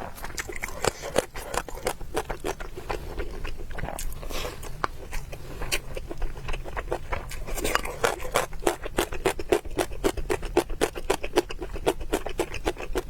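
Close-miked eating sounds: a person chewing, with a run of quick wet mouth clicks that comes thicker and faster in the second half.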